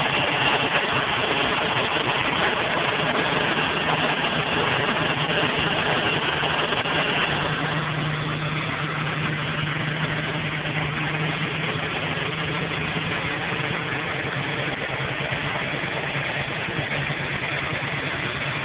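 Ford Taurus engine idling after a cold start, with a steady high-pitched squeal over the running engine that dies away about seven seconds in.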